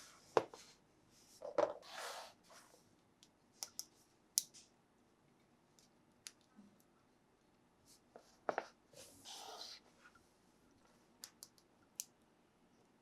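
Plastic toys and packaging being handled: scattered light clicks and taps, with two short rustles.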